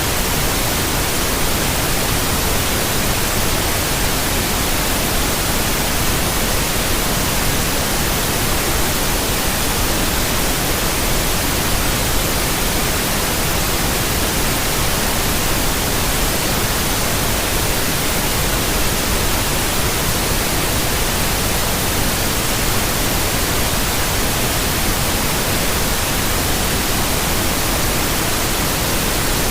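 Steady, unchanging white noise: an even hiss spread across all pitches, brightest in the treble.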